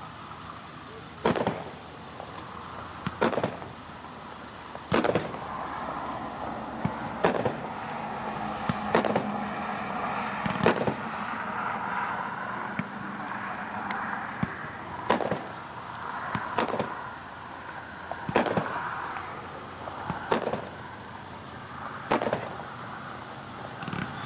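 A 350-gram consumer aerial repeater cake firing shell after shell, heard from a distance: about a dozen sharp reports, roughly one every two seconds, with a hissing, crackling haze between them.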